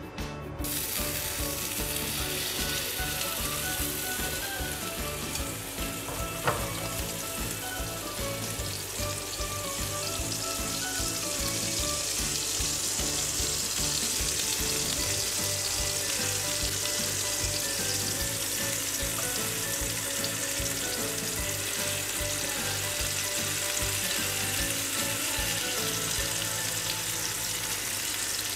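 Chicken seekh kebabs on wooden skewers sizzling steadily as they fry in oil in a nonstick frying pan, the sizzle getting stronger about ten seconds in. A single sharp tap comes about six seconds in.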